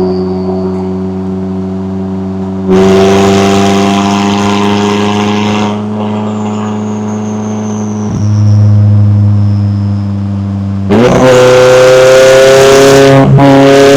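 McLaren 570S twin-turbo V8 exhaust under way, holding steady revs with a louder stretch of throttle early on. The engine note dips briefly about eight seconds in, then gets much louder and rises a little about eleven seconds in as it accelerates, with a short break near the end like a gear change.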